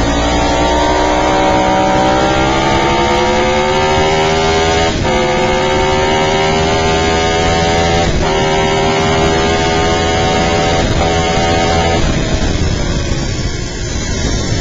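Ducati 1098-series V-twin sportbike engine heard onboard under hard acceleration, its note climbing with the revs and broken by three quick upshifts about five, eight and eleven seconds in. Near the end the note drops away as the throttle is closed, over steady wind rush.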